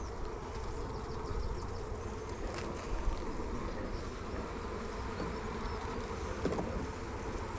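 Honeybees buzzing around an opened hive, a steady hum over a low rumble, with a couple of light knocks from frames being handled.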